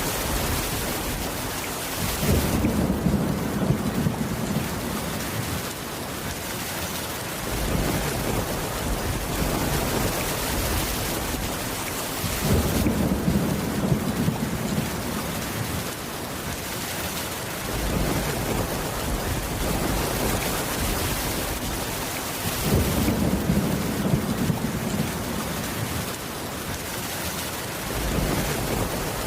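Steady rain with low rolls of thunder, three of them about ten seconds apart.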